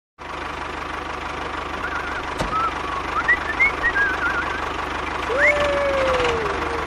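A steady low mechanical hum with a fine even pulse, like a small motor running. Over it come a string of short wavy whistled chirps, then a call that rises quickly and falls slowly, about five seconds in.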